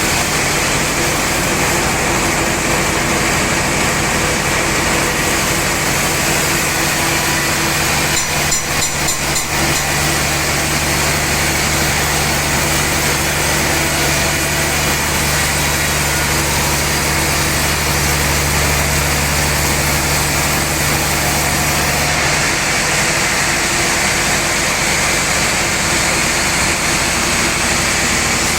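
Sawmill saw machinery running under load while cutting a giant trembesi log: a loud, steady mechanical noise with a low hum. A short cluster of knocks comes about eight to ten seconds in, and the low hum drops away about 22 seconds in.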